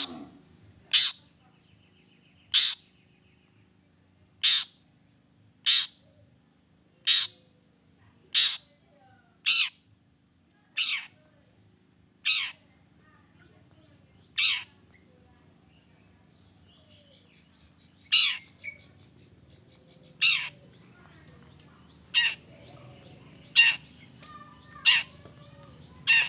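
Long-tailed shrike giving short, harsh, scolding calls, one every second or so. The calls pause for a few seconds just after the middle, then resume.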